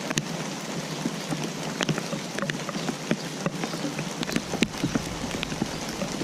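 Steady rain falling, with a constant hiss and many individual drops ticking and splashing at an irregular pace.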